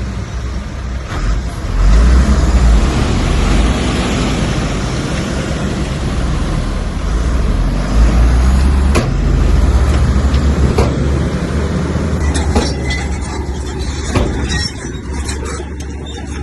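Bulldozer's heavy diesel engine working under load, with a deep rumble that swells about two seconds in and again around eight seconds. Several sharp knocks come in the second half.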